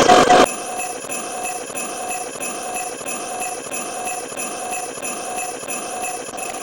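Jingle bells shaken in a steady rhythm, about two jingles a second, used as a sound effect. A louder, denser sound cuts off about half a second in.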